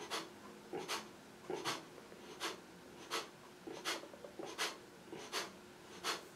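Kapalbhati breathing: short, sharp exhalations forced out through the nose, evenly paced at a little more than one a second, faint.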